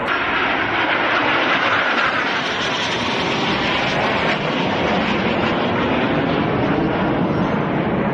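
Display aircraft flying past, its engine noise a loud, steady rush with a tone that falls in pitch during the first few seconds as it goes by.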